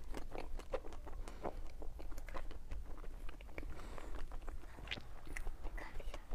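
Close-miked chewing of a soft cream-filled mochi, a rapid run of small wet mouth clicks.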